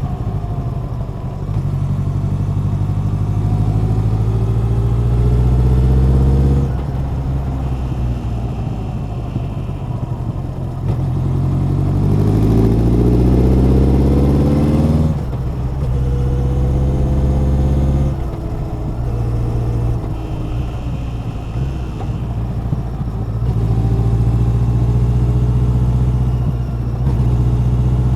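Honda CB1100's air-cooled inline-four engine and exhaust under way: the engine note rises with the throttle and drops back abruptly about four times as the rider shifts or rolls off.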